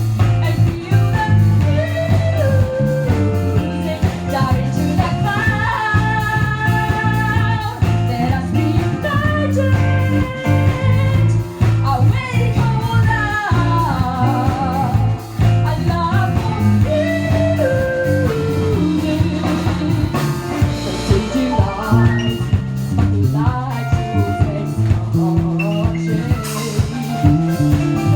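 Live rock band playing: guitar and drums under a steady heavy bass, with a gliding melodic lead line.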